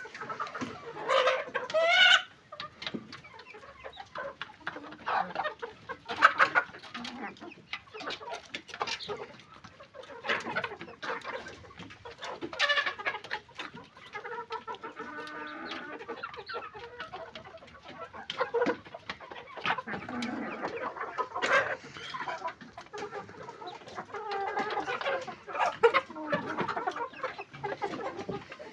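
A flock of chickens clucking and calling over one another, many birds at once, with a few louder calls standing out now and then.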